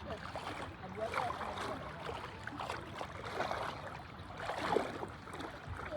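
Water sloshing and lapping, with faint voices in the background.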